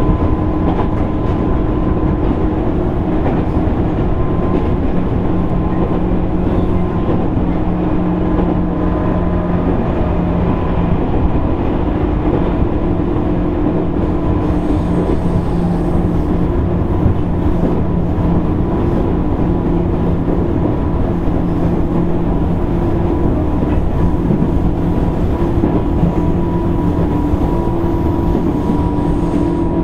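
Running sound inside the motor car of a JR East 205 series 600 subseries electric train at a steady speed. Traction motors and gears give a steady hum over the rumble of wheels on rail.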